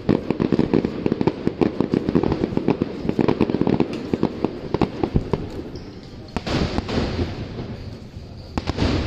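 Fireworks display: a fast, dense string of sharp bangs and crackles for about five seconds, thinning out, then two separate louder bursts with a hissing crackle after them, one past the middle and one near the end.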